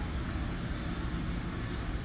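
Steady low rumble and hiss of a New Jersey Transit passenger train rolling along the track, heard from inside the coach.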